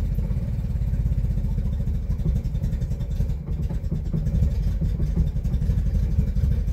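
1964 Chevrolet Corvair's air-cooled flat-six idling steadily just after a cold start, heard from inside the cabin.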